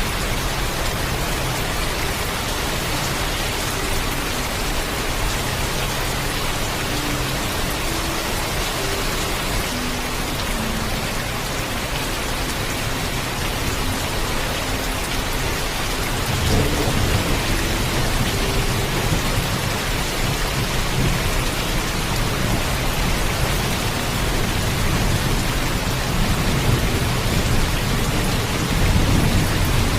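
Steady heavy rain with thunder. A low rumble swells up about halfway through and grows again near the end.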